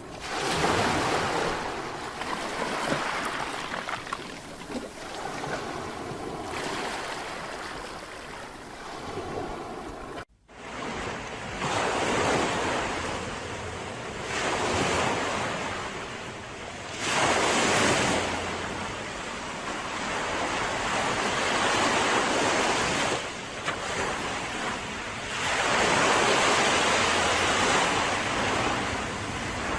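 Mediterranean sea waves breaking and washing up on a beach, the surf swelling and ebbing every few seconds. A brief dropout about ten seconds in, where the recording cuts to another stretch of surf.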